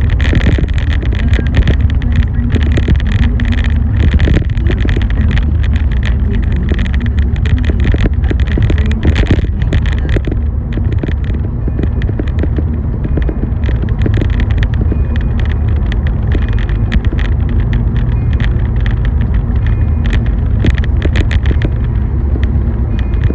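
Car driving in the rain: a steady low road rumble with a dense, irregular patter of raindrop ticks over it.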